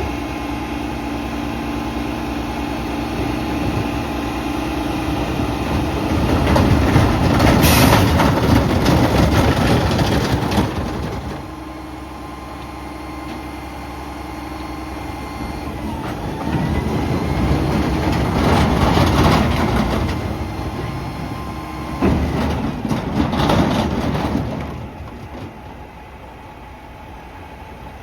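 Mack MRU McNeilus front-loader garbage truck running, its engine sound swelling louder three times between steadier stretches and easing off near the end.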